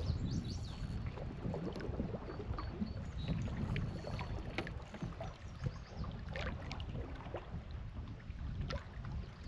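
Canoe paddling on a lake: water splashing and dripping off the paddle strokes, over a low wind rumble on the microphone.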